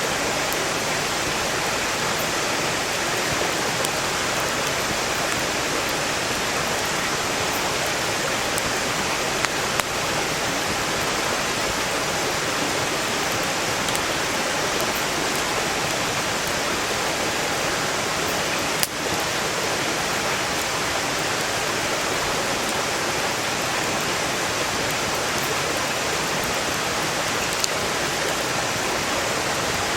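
Valley stream rushing steadily, with a few sharp pops from a wood campfire; the loudest pop comes about two-thirds of the way through.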